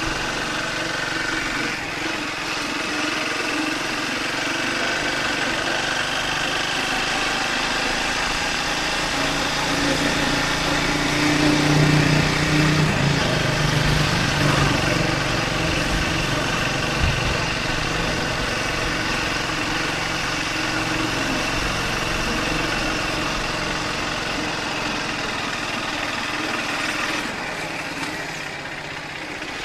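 Triumph Speed 400's single-cylinder engine running steadily, with its low hum swelling louder for a few seconds around the middle.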